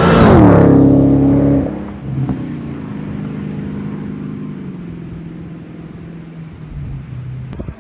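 Supercharged 6.2-litre Hemi V8 of a 2016 Dodge Challenger SRT Hellcat driving past: the exhaust note is loudest in the first second and a half and drops in pitch as the car goes by, then fades steadily as it pulls away. A sharp click near the end.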